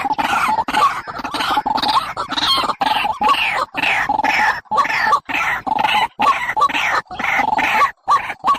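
Barred rail (tikling) calling: a fast series of short, harsh notes, each sliding down in pitch, several a second with brief breaks, played as a lure call for trapping.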